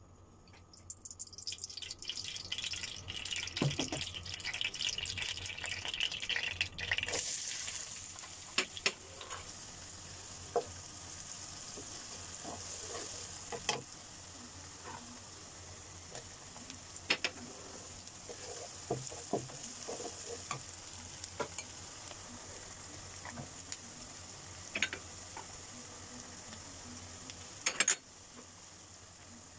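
Cooking oil crackling as it heats in a nonstick wok, then chopped onions frying with a steady sizzle. A wooden spatula stirring them knocks and scrapes against the pan, with a clatter of knocks near the end.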